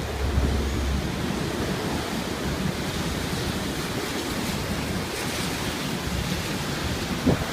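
Typhoon wind blowing hard and steadily, an unbroken roar with rumbling wind noise on the microphone, and a brief low bump near the end.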